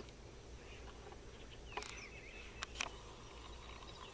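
Faint bird chirps over a quiet outdoor background, with three small sharp clicks about two to three seconds in.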